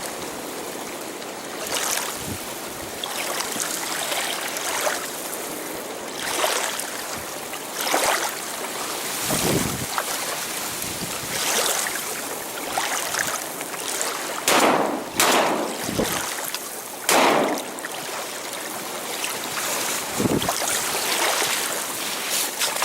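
Strong wind noise with water splashing and lapping, in short, irregular surges every second or two.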